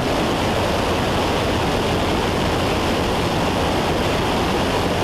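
Steady cabin drone of a Cessna 172 in cruise flight: engine and propeller running evenly, mixed with rushing airflow noise.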